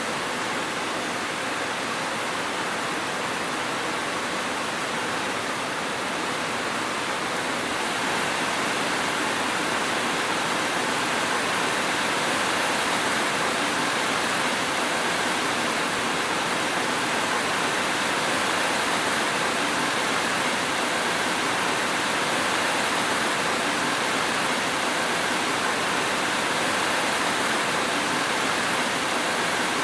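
Steady rain falling, an even hiss with no separate drops, thunder or other sounds, getting a little louder about eight seconds in.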